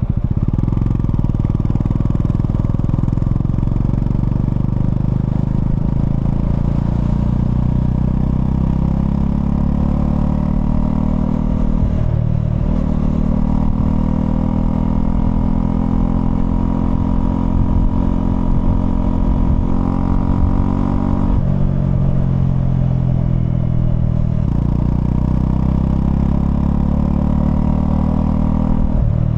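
Honda CL250's single-cylinder engine running while being ridden. Its note steps to a new pitch several times and climbs slowly for a stretch in the middle.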